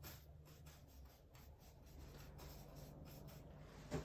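Paintbrush working white acrylic paint across a canvas: faint, repeated scratchy brush strokes.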